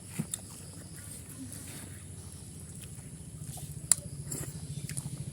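Someone eating pork curry: chewing and small eating clicks, with one sharp click about four seconds in, over a steady low hum.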